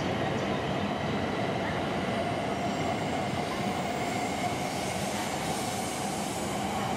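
Shinkansen train on a neighbouring track moving through the station: a steady rumble with a hum that grows stronger and rises slightly in pitch about halfway through.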